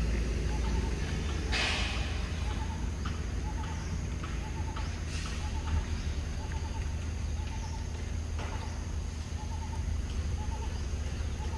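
A bird in the background gives short calls over and over, a little more than one a second, over a low steady rumble. A few brief rustling bursts break in.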